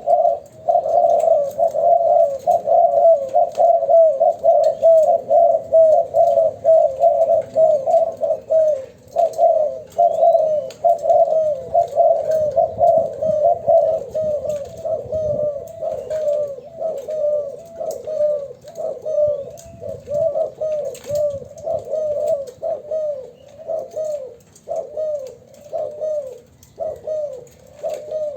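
Spotted doves cooing: a continuous run of short, falling coo notes, several a second, that thins a little toward the end.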